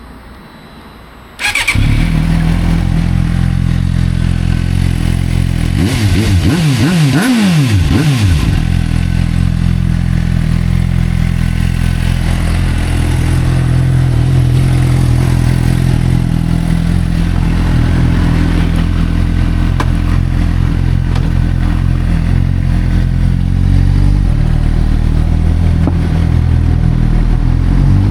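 Suzuki GSR600 inline-four with a Dominator aftermarket exhaust starting up about a second in and settling into a loud idle. A few seconds later it is revved several times in quick blips, the pitch rising and falling, then it returns to a steady idle.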